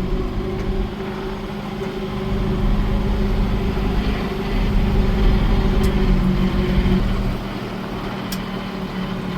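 A vehicle's engine running steadily, getting louder over a few seconds and then easing back near the end.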